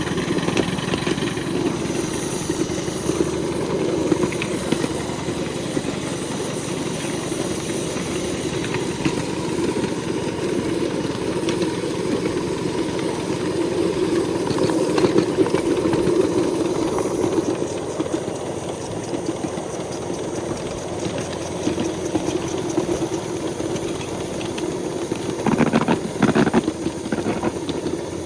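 A 7¼-inch gauge 0-6-0 live steam locomotive running steadily, with a continuous mix of steam and mechanical running noise. A few louder knocks come near the end.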